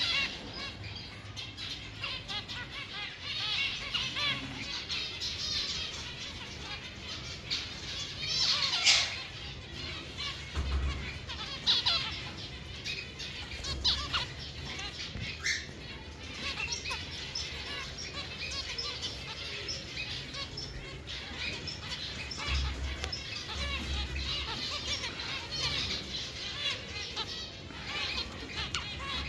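Many caged birds chirping and chattering at once, a dense overlapping twitter with louder bursts of calls now and then.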